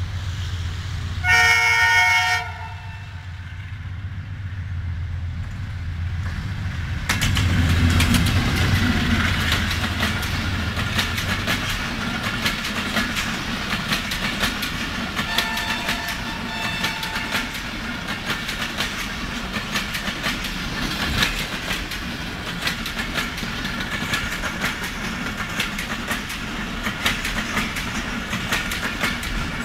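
An AGE-30 diesel locomotive sounds a loud horn blast about a second in, its engine drone growing as it comes up and passes about seven seconds in. Then the express passenger coaches roll by with steady clickety-clack of wheels over rail joints, with a second, fainter horn note about halfway through.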